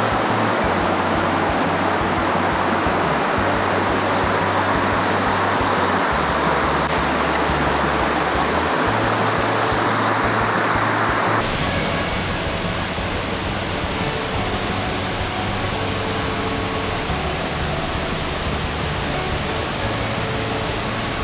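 Rushing water of a mountain brook and waterfall, a steady loud hiss that shifts abruptly about 7 and 11 seconds in, with soft background music and a low bass line underneath.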